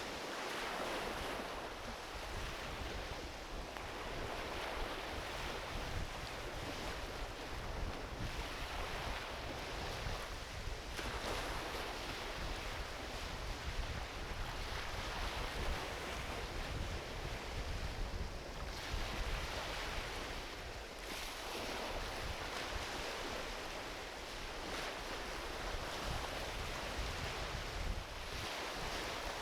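Small ocean waves washing onto a beach, swelling and falling back every few seconds, with a driftwood campfire crackling in short sharp pops.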